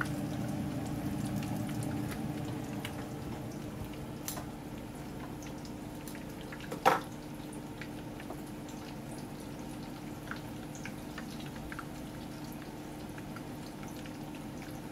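Chicken taquitos frying in oil in a pan: a steady sizzle with scattered small pops and crackles, easing off after the first few seconds. One sharp knock about seven seconds in is the loudest sound.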